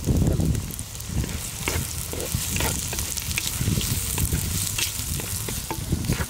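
Sliced onions and green chillies sizzling in hot oil in a pot, stirred with a slotted spatula that scrapes and clicks through them.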